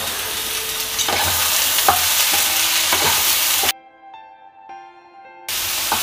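Masoor dal (red lentils) with onions and poi stems sizzling as they shallow-fry in oil in a nonstick pan, stirred with a wooden spatula that knocks against the pan a few times. About two-thirds of the way in the frying sound cuts off suddenly for almost two seconds, leaving only faint steady tones, then the sizzle comes back.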